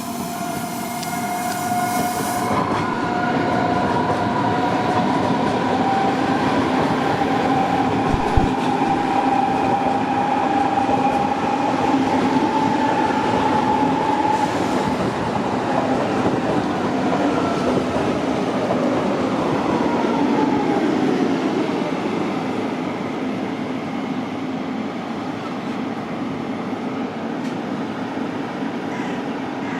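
Electric train running past, with a loud rumble of wheels on rail. A pitched motor whine rises slightly and then falls away in pitch from about halfway through.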